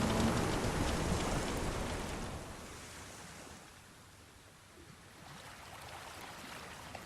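Sea waves washing in a steady rush. The sound is loud at first, dies down to a lull in the middle, and swells again near the end.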